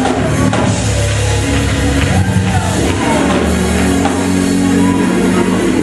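Live church music in a large hall, with long held chords that change every second or two, and voices singing and calling out over it.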